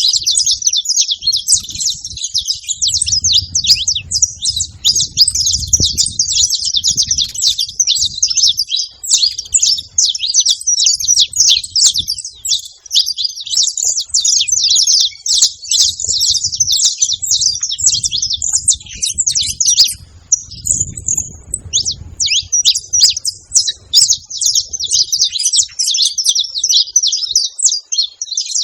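A flock of saffron finches chirping and singing all at once, many quick high calls overlapping into a continuous chatter, with a brief thinning about two-thirds of the way through.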